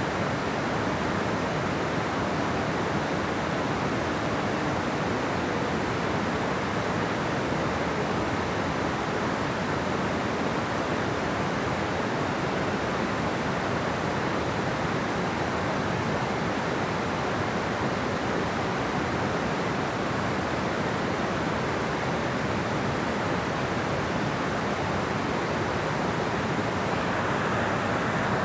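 Steady rushing of water pouring over a dam, an even noise that holds level throughout.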